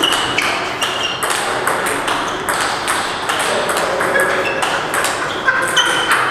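Table tennis balls clicking off bats and tables in a dense, irregular stream of sharp hits, many with a short high ping.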